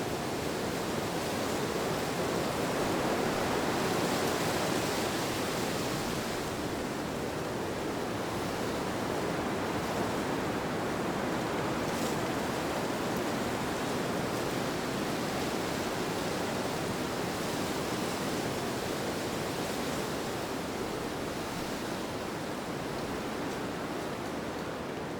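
Steady wind: a continuous rushing that swells a little and eases slowly.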